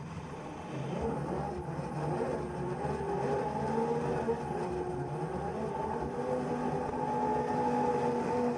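Car engine running hard at high revs during drifting, its pitch stepping up and down, heard from a camera mounted on the car's bonnet. It is quieter for the first second, then louder.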